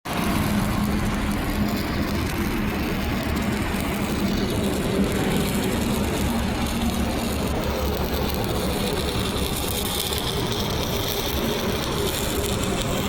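Crackling, frying arc of a 6010 stick electrode burning steadily through a downhill pipe root pass, over a steady engine hum.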